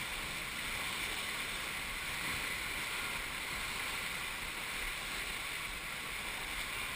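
River water rushing steadily around a raft, an even hiss without distinct splashes or paddle strokes.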